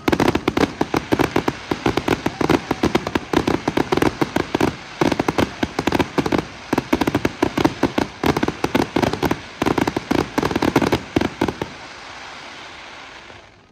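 Fireworks display: a dense, rapid barrage of bangs and pops, many a second, that stops about twelve seconds in. It gives way to a softer, fading crackle of glittering crackling stars.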